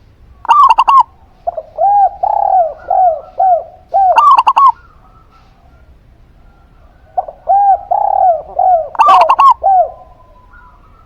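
A zebra dove (perkutut) and a spotted dove (derkuku) cooing. Three short, loud, sharp call groups are heard, with runs of lower, softer rounded coos between them.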